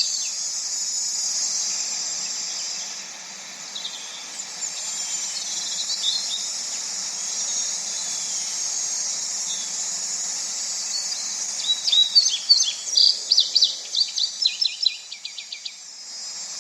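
Birds chirping over a steady high-pitched background noise: scattered chirps through the middle, then a dense run of chirps about twelve seconds in that quickens into a fast trill near the end.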